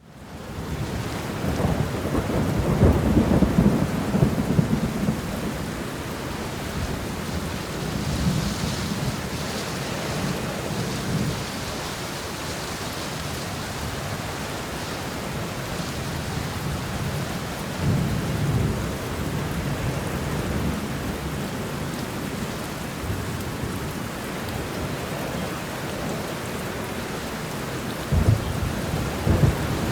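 Steady rain hissing down, fading in from silence at the start, with low rolling rumbles of thunder several times, the loudest a couple of seconds in and another starting near the end.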